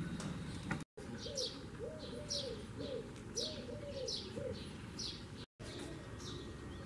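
Birds calling: a quick run of short, high, falling chirps over a row of lower, arched notes. The sound cuts out briefly twice.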